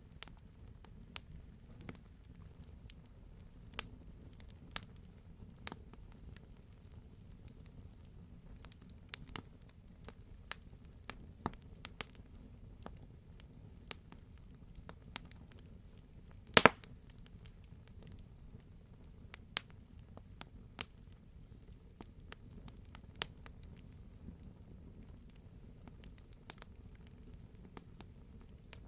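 Campfire crackling: scattered sharp pops and snaps over a low steady rumble of burning wood, with one much louder pop about two-thirds of the way through.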